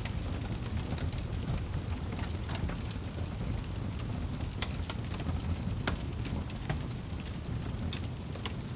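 Wood fire burning in a fireplace: a steady low rumble of flames with frequent small crackles and a few sharper pops of the burning firewood.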